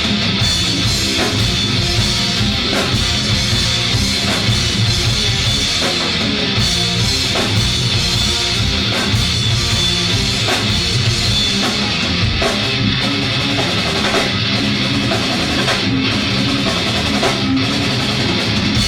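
A live rock band playing loudly: electric guitar, bass and a drum kit in a dense, steady groove, with drum hits marking a regular beat.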